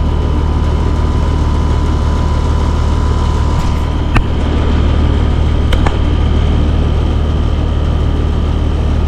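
Air conditioner's outdoor condensing unit running steadily with a low, even hum from the compressor and fan; the refrigerant pressures read good on both ends. Two sharp clicks come about a second and a half apart around the middle.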